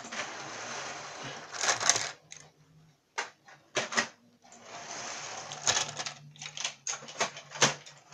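Model train running along the track, a steady motor hum under rolling rattle and rapid clicking from the wheels. It stops about two seconds in and starts again after about two seconds, with a few sharp clicks in between.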